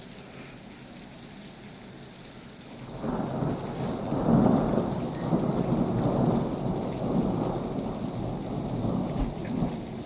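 Rain falling steadily, then a long roll of thunder that starts about three seconds in, is loudest a second or so later and keeps rumbling, slowly dying away.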